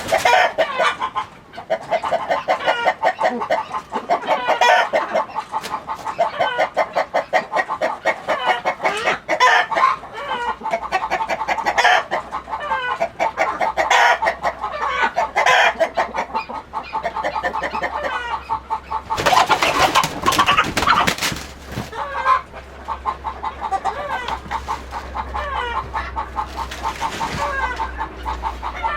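A flock of chickens clucking continuously in many short, overlapping calls, with a louder, harsher burst of noise about twenty seconds in.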